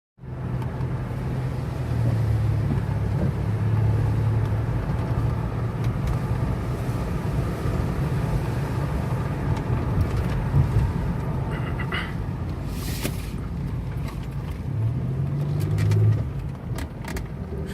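A 2000 Pontiac Bonneville's 3800 V6 engine runs steadily with road noise while driving. Near the end its note rises under throttle and then falls away as the engine hesitates and stalls under load, the car's intermittent shut-off fault.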